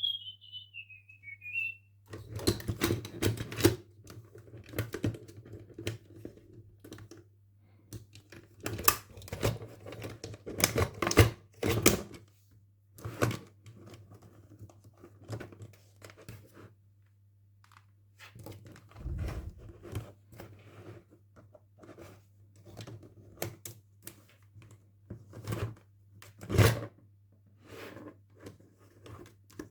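Toy packaging being handled and opened by hand: irregular clicks, taps, rustling and tearing of plastic and cardboard, with short quiet gaps. A short high warbling chirp sounds at the very start.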